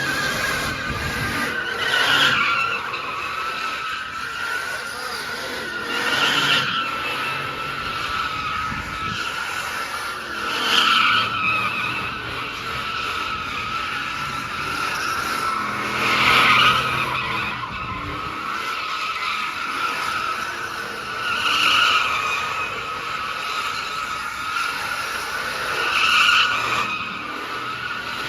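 Car tyres screeching in a continuous slide, swelling louder about every five seconds, six times, as a car does donuts, with its engine running beneath.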